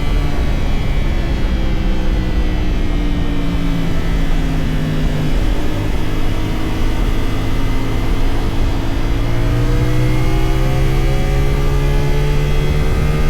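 CFMoto 450SR's parallel-twin engine running under way: the revs fall slowly over the first five seconds, stay low for a few seconds, then climb steadily again toward the end.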